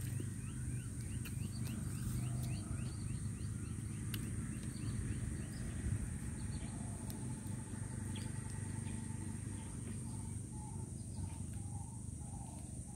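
Birds chirping: a quick run of short rising notes over the first three seconds or so, then scattered lower calls later, over a steady high whine and a low background rumble.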